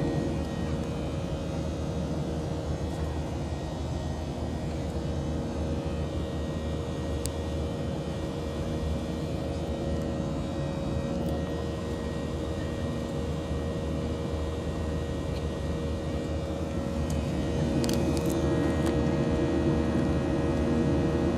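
Steady roar of a passenger airplane heard from inside the cabin, with a constant droning hum under it, growing somewhat louder near the end.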